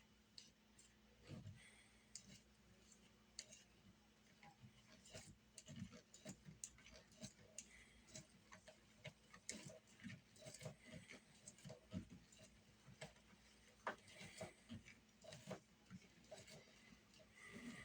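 Faint, irregular clicking and tapping of kitchen utensils against a bowl, sparse at first and busier from about five seconds in.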